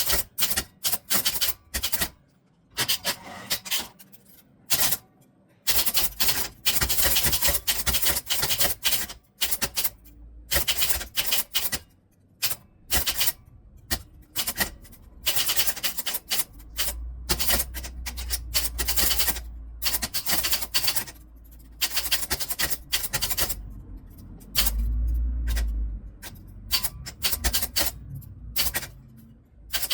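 Typewriter being typed on: rapid runs of sharp key strikes in bursts with short pauses between them. A low rumble runs under the typing twice in the second half.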